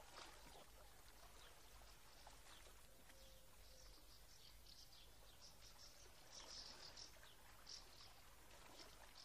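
Near silence: faint outdoor ambience with scattered high bird chirps, clustered a little past the middle.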